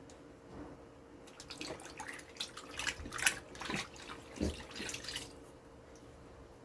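Liquid fabric softener being poured into a top-load washing machine, with irregular splashing that starts about a second in and lasts about four seconds.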